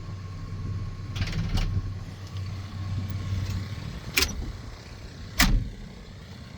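Two sharp metal clanks, the second louder, a little past halfway through, from handling the opened hood and engine compartment of a Caterpillar 725C haul truck, over a steady low rumble.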